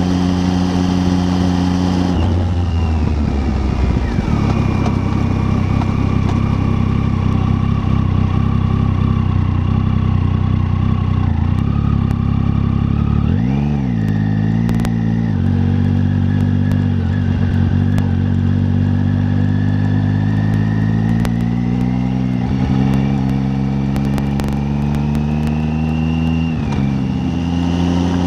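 Triumph Tiger 800's three-cylinder engine running under way at steady revs. The engine note falls about two seconds in, then dips briefly and picks back up twice, about halfway through and near the end.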